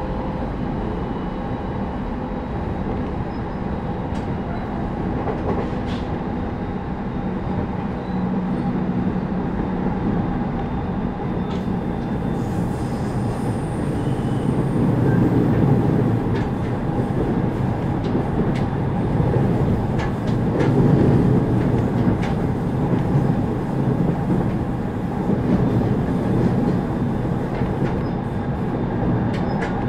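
Running noise inside a JR East 209 series 2100-subseries electric train car on the move: a steady rumble of wheels on rail with a few steady tones and scattered sharp clicks. It grows louder about halfway through.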